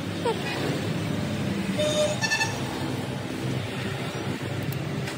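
Road traffic noise with a brief vehicle horn toot about two seconds in.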